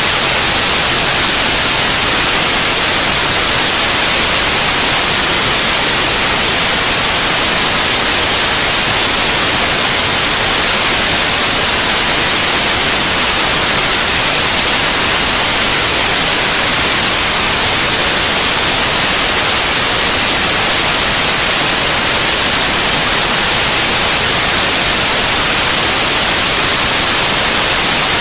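Steady, loud white noise: an even, unbroken hiss, brightest in the high end, played as a sleep aid for babies.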